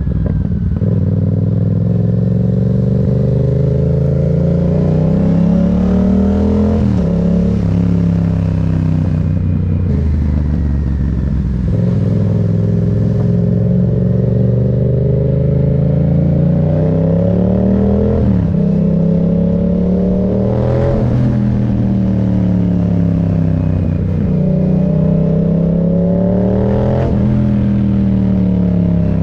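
Yamaha MT-07's parallel-twin engine accelerating under load, its pitch climbing and then dropping sharply at each of several gear changes, with the revs easing off for a while in between.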